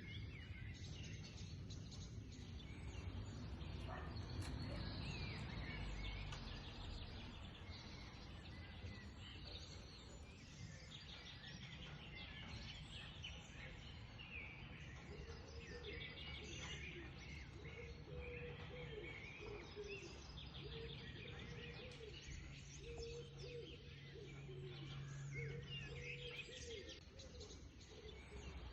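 Small birds chirping and calling repeatedly over a faint, steady outdoor background noise, with a low hum for a few seconds near the end.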